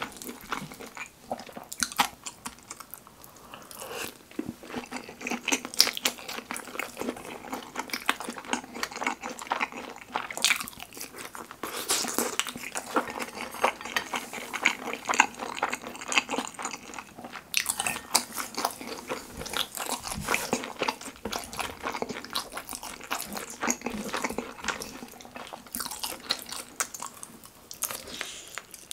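Close-miked chewing and biting of kimchi pizza tangsuyuk, battered fried pork with kimchi and melted cheese in sauce, made up of many short wet smacks and clicks.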